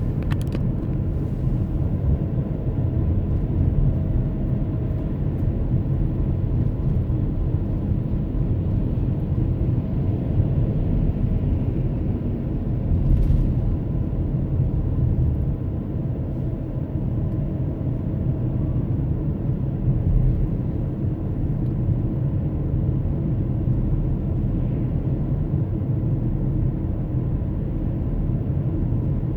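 Car driving along a road: a steady low rumble of tyre, road and engine noise.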